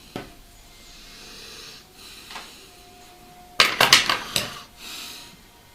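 Hard objects being handled: a couple of light knocks, then a quick clatter of several sharp knocks about two thirds of the way through, followed by a short soft rustle.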